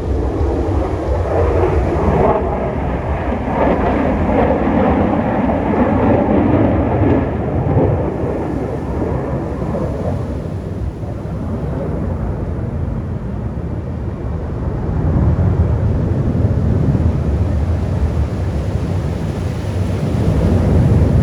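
Aircraft flying over, a loud rumble that eases off around the middle and builds again near the end.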